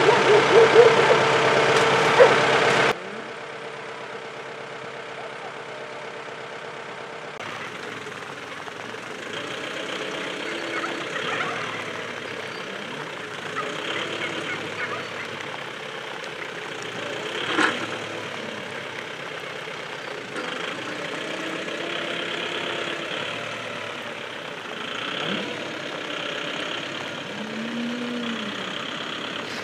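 A farm vehicle's engine running steadily, loud for the first three seconds and then suddenly much fainter, with a single sharp click a little past halfway.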